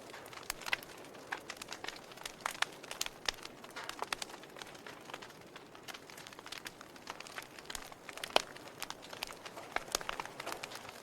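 Wood fire crackling: irregular sharp pops and snaps of burning wood over a soft hiss, with one louder pop about eight seconds in.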